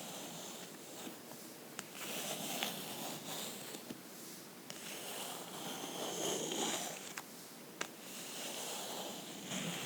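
A book handled close to the microphone for ASMR: a run of soft scratching and rustling strokes across its surface, broken by a few single sharp taps.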